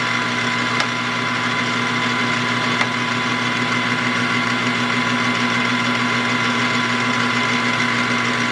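Small metalworking machine tool's motor and spindle running at a steady speed, a steady hum with a whine. It stops right at the end.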